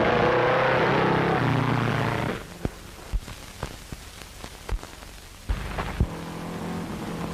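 Car engine running loudly for about two seconds, then cut off into a quieter, hissy stretch broken by several sharp knocks. From about five and a half seconds an engine runs again, more quietly.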